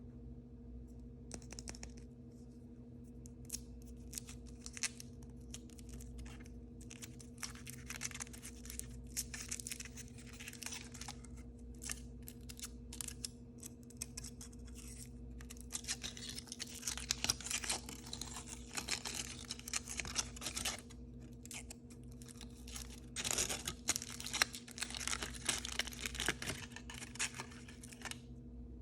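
Blind-bag packaging being handled and torn open: plastic foil wrappers crinkling, tearing and rustling, with many small clicks and taps that get busier in the second half. A faint steady hum runs underneath.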